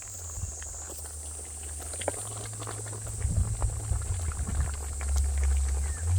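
A pot of duck and hwangchil wood boiling over a wood fire, with scattered crackles from the fire and a low rumble that grows louder toward the end. A steady high insect trill runs behind.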